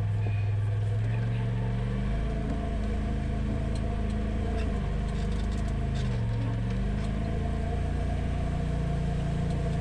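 Polaris RZR Pro XP side-by-side's twin-cylinder engine running steadily at low trail speed. Its pitch steps with throttle changes about two seconds in and again around six to seven seconds in.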